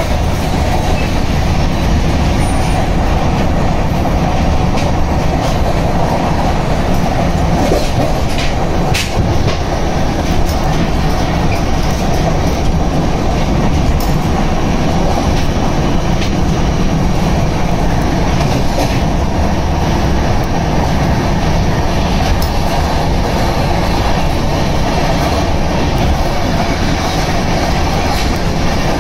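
Rajdhani Express train running on the rails: a steady, dense rumble of wheels on track with a few sharp clicks.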